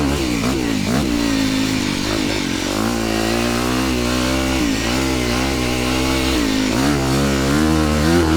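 Dirt bike engine revving up and down as the throttle is worked on and off over a rough track, its pitch rising and falling repeatedly.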